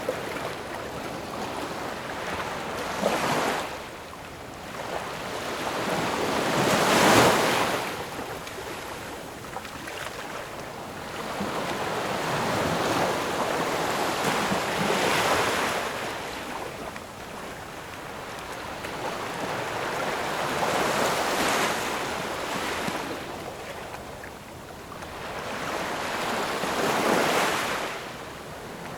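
Ocean waves breaking and washing up the shore, rising and falling in slow surges about every five or six seconds, the loudest about seven seconds in.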